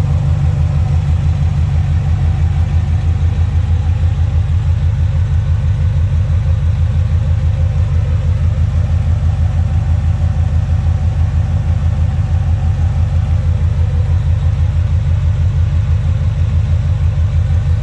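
1971 Chevrolet C10 pickup's engine idling steadily with an even, pulsing exhaust rumble while it warms up after a cold start.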